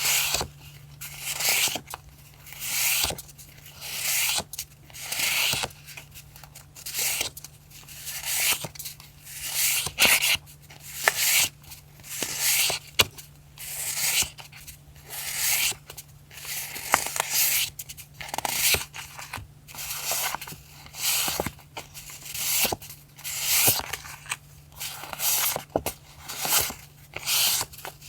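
Paper and sticker sheets being worked by hand for collage journaling: short rasping paper strokes, roughly one a second, with small clicks between them. A steady low electrical hum runs underneath.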